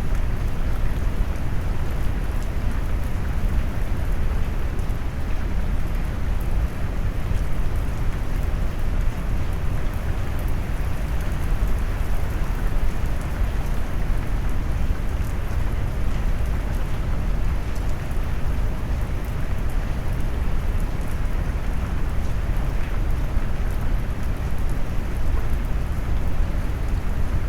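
Rain mixed with brown noise: a steady, deep hiss weighted toward the low end, with faint scattered drop ticks on top.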